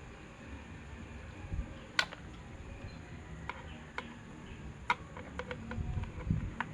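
Scattered sharp clicks and taps of small parts and tools being handled, over a low steady hum that grows a little louder near the end.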